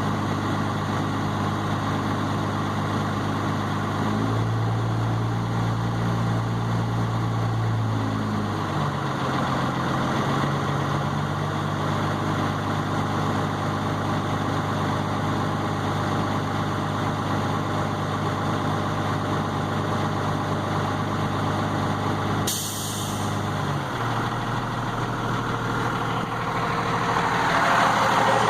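12-valve Cummins 5.9-litre inline-six turbodiesel idling steadily while still cold after a cold start; its pitch steps up a few seconds in and settles back down a few seconds later. A short, sharp hiss comes well past the middle, and a hissing noise builds louder near the end.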